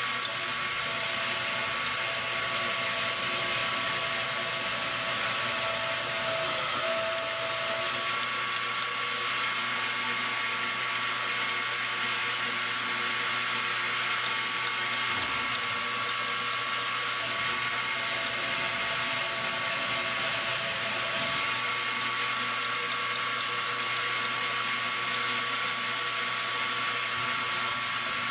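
Metal lathe running steadily while machining a small steel T-nut, its motor and gearing giving a constant whine over the hiss of the cut.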